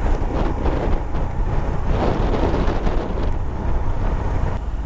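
Wind rushing over the microphone on a moving Royal Enfield Himalayan, with the bike's single-cylinder engine running beneath it; the wind noise eases a little near the end.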